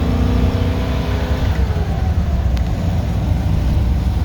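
Ford 460 big-block V8 running under way in a manual-gearbox vehicle, its steady engine note falling away about a second and a half in as the throttle comes off, leaving a low rumble. The engine is running slightly lean on a freshly converted fuel-injection harness while it learns its fuel trims.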